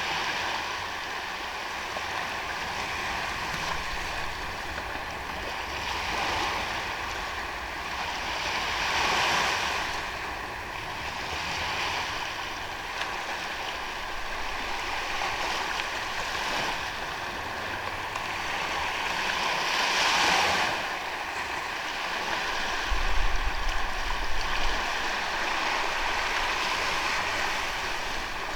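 Ocean waves washing onto a sandy beach: a steady surf hiss that swells every few seconds as waves break, strongest twice. There is a brief low rumble near the end.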